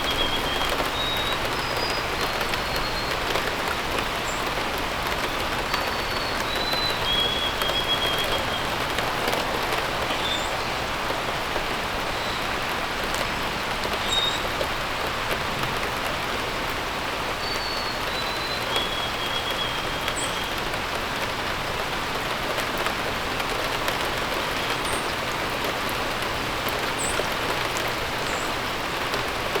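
Steady rain falling, with birds chirping and whistling now and then over it.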